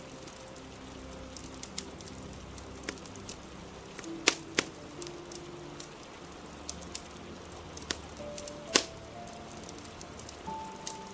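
Wood fire crackling with scattered sharp pops, the loudest about four and a half and nearly nine seconds in, over a steady hiss of rain and soft background music with slow held notes.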